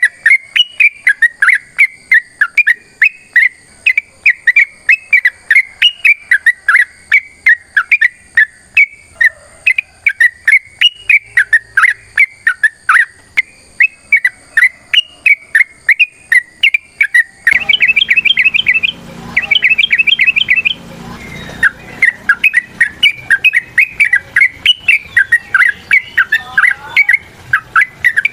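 Yellow-vented bulbul (trucukan) calling in a long, rapid string of short, sharp chirps, about three a second. This is the excited, combative 'ropel' calling used to provoke other bulbuls into answering. A little past halfway the calls break into a few seconds of faster, higher trills, and the background hiss grows louder.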